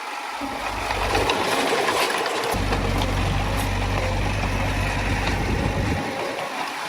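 Crawler bulldozer running at work with a steady clatter. A deep rumble comes in about half a second in, grows heavier from about two and a half seconds and drops away near the end.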